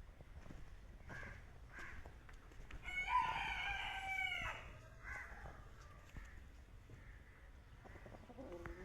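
Rooster crowing once, a single drawn-out crow of nearly two seconds that starts about three seconds in and drops in pitch at its end.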